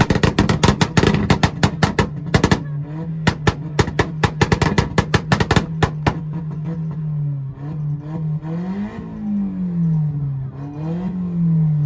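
Volkswagen's engine held on a two-step rev limiter, with a rapid, irregular string of exhaust pops and bangs over a steady engine note. About six seconds in the popping stops and the engine is revved up and down twice.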